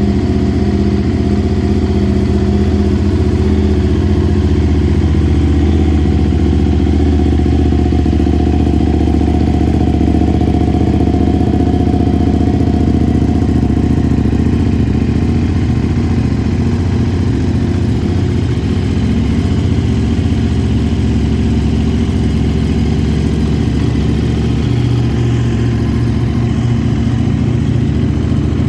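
2013 KTM 990 SMT's V-twin engine running at a steady idle.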